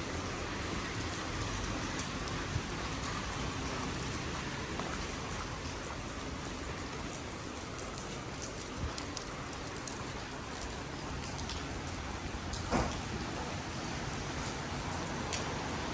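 Heavy rain falling steadily, with scattered drop ticks and a single thump near the end.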